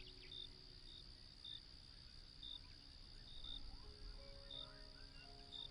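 Faint night-time ambience: a cricket chirping in short, evenly spaced chirps about once a second, over a soft music bed of quiet held notes.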